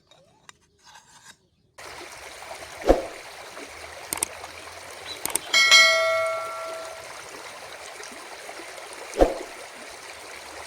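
Steady rush of running water outdoors, starting about two seconds in. Two dull knocks sound over it, and a single metallic ring with several overtones, struck about halfway through, dies away over about a second and a half.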